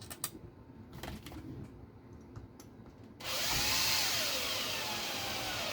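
A few light clicks of small parts being handled, then a power driver runs for about two and a half seconds, its whine dipping and rising in pitch as it drives a 25 mm screw into the RC car's chassis, and cuts off abruptly.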